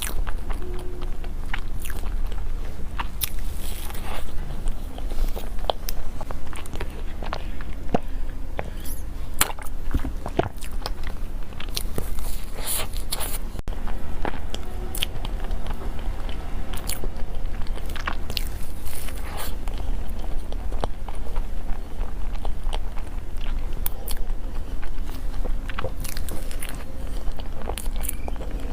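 Close-miked chewing and biting of soft desserts, with many short wet mouth clicks and smacks at an irregular pace over a steady low hum.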